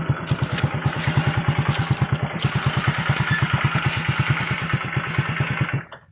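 A small engine running at a steady idle-like pace with a fast, even pulse of about ten beats a second; it cuts off suddenly near the end.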